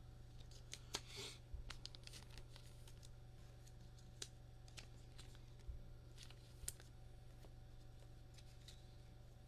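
Trading cards being handled and sorted by hand: faint scattered clicks and taps, with a short rustle about a second in, over a low steady hum.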